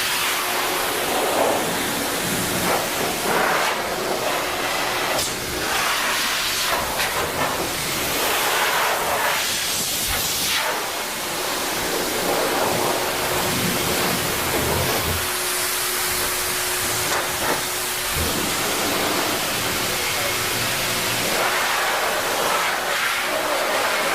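High-velocity pet dryer blowing steadily, a loud rush of air with a faint motor whine under it, used to force water out of a dog's wet coat.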